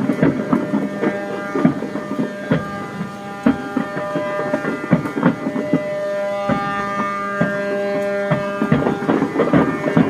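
Many ships' horns sounding together, long held blasts at several different pitches overlapping and starting and stopping at different times, with scattered sharp bangs and pops among them.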